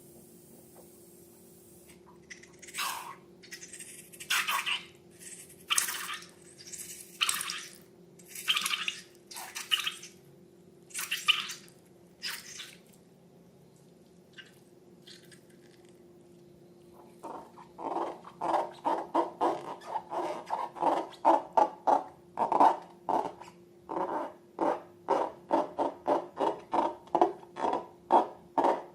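Wet, sticky slime being worked by hand. First come scattered single squishes about a second and a half apart. From a little over halfway in there is a fast, even run of squishes, two or three a second, over a faint steady hum.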